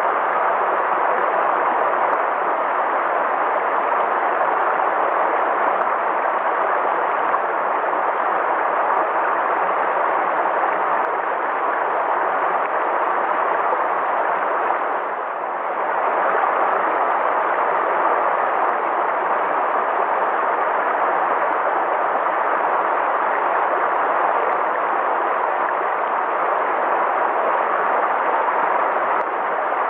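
River water flowing in a steady rush, briefly dipping softer about halfway through.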